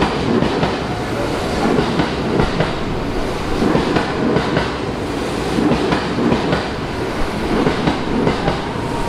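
JR West electric commuter train running along the platform, its wheels clacking over the rail joints in a steady rumble.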